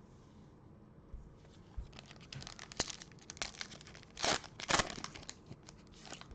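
A foil trading-card pack being torn open and its wrapper crinkled: a run of crackles with two louder tears a little past the middle.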